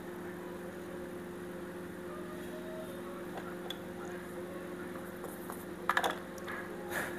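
A steady low hum, with a quick cluster of small sharp plastic clicks near the end and one more just after, as the parts of an air conditioner remote are handled and fitted back together.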